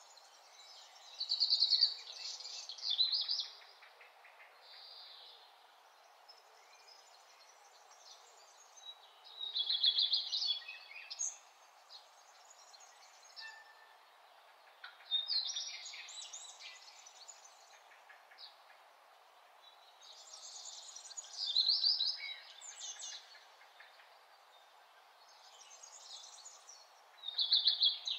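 Birds singing: short phrases of rapid high chirps and trills come every five or six seconds, over a steady faint background hiss.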